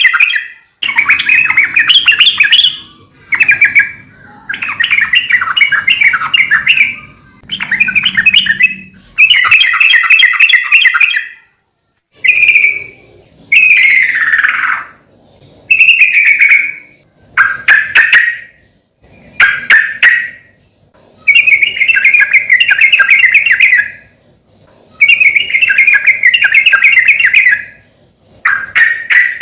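Yellow-vented bulbul singing loud, bubbly chattering phrases of a second or two each, separated by short pauses. A few downward-slurred notes come midway.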